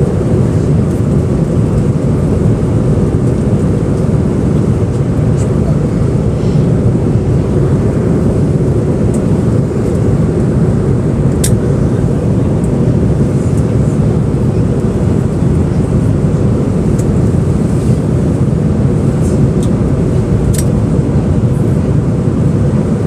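Airliner cabin noise in flight: the steady, even sound of jet engines and airflow, heaviest in the low range. A couple of faint clicks stand out briefly.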